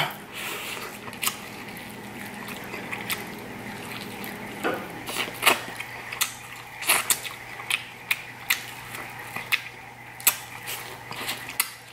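Close-up eating sounds of grilled corn on the cob being bitten and chewed: irregular, crisp clicks and crunches of kernels and mouth, over a faint steady low hum.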